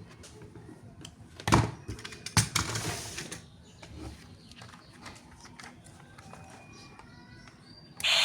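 Handling knocks and clicks: two sharp knocks, about a second and a half in and again a second later, a short rustle right after, then scattered light clicks.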